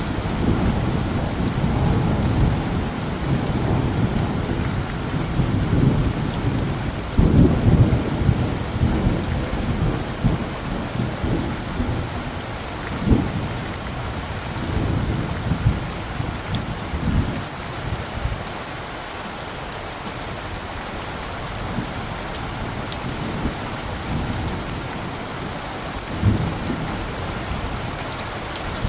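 Steady rain pattering, with low rolling thunder rumbling through the first half, heaviest about a quarter of the way in, then fading to rain alone with one brief low rumble near the end.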